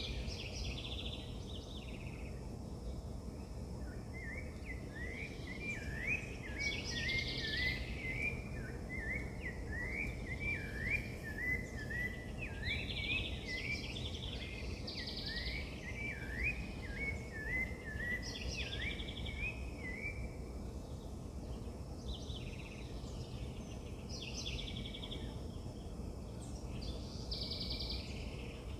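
Birds singing: one bird gives a long, fast string of short up-and-down notes from about four seconds in until about twenty, while other birds chirp in short repeated bursts throughout, over a steady low outdoor rumble.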